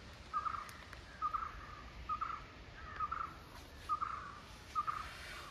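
A bird calling in a steady series, one short call about every second.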